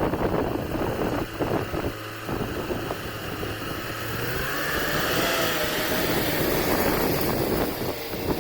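Borewell drilling rig running steadily with a dense, rumbling noise, a faint wavering whine coming in about halfway through.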